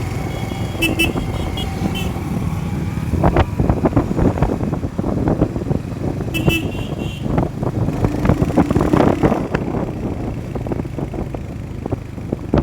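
Riding on a motorcycle in traffic: a steady low engine and road rumble with knocks and wind noise. A vehicle horn beeps briefly in short pulses twice, about a second in and again around six seconds in.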